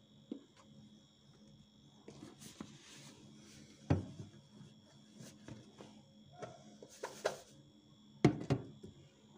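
Household items being handled and set down, making a series of knocks and clatters. The loudest come about four seconds in and near the end. A faint steady high whine runs underneath.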